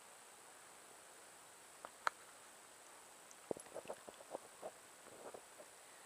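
Faint steady high insect drone, with a single sharp click about two seconds in and a short run of irregular clicks and knocks in the second half.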